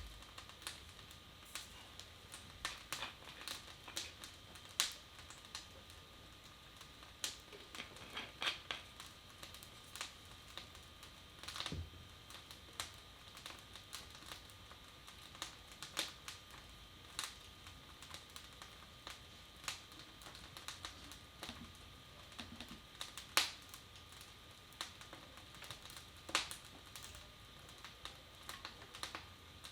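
Wood fire in a fireplace crackling, with irregular sharp snaps and the odd deeper pop, over a faint steady high hum.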